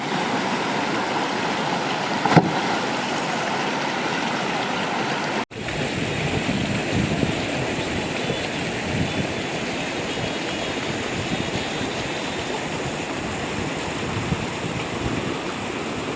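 Steady rushing noise of flowing water, like a mountain stream, with a sharp click about two seconds in. The sound drops out for an instant about five and a half seconds in, then goes on.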